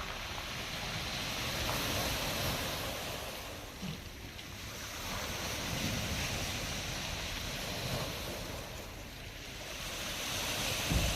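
Black Sea surf: waves breaking and washing back, the rush swelling and easing about every four seconds. Wind gusts rumble on the microphone.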